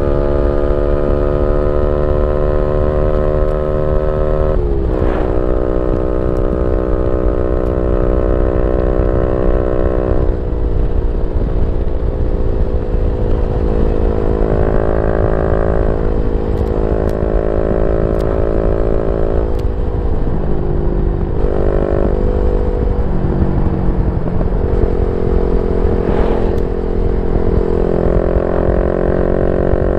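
Yamaha Y15ZR's 150cc single-cylinder four-stroke engine running through a YYPANG SD3 aftermarket exhaust while ridden. The engine note holds steady, drops sharply about five seconds in and again near ten seconds, then dips and climbs several times.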